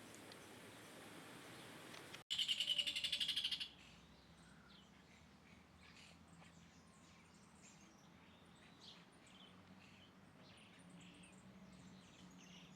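Many small birds chirping and calling in short scattered notes, over a faint steady hum. About two seconds in, a loud, rapid clicking rattle lasts about a second and a half and is the loudest sound.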